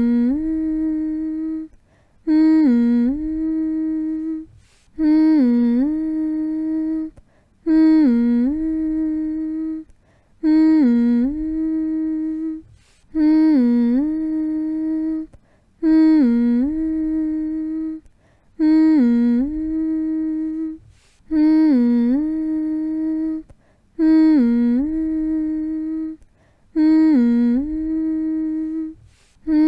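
A human voice humming one low, steady note over and over, each hum opening with a quick dip and rise in pitch and held for about two seconds, with short breaks between. This is a repetitive soothing hum meant to lull a baby to sleep.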